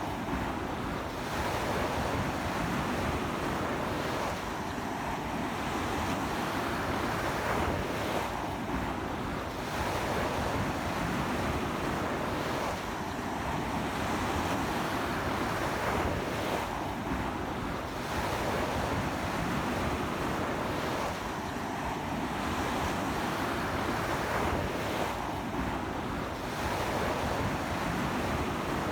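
Waves breaking on a sandy beach in strong sea wind: a continuous wash of surf that swells and eases about every four seconds, with wind on the microphone.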